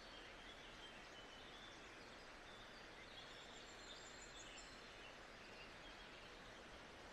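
Faint, steady nature-sound ambience: an even hiss of noise with faint, short, high bird chirps scattered through it.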